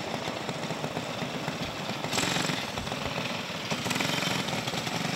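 Racing go-kart engines running together in a rapid, rattling buzz, louder from about two seconds in.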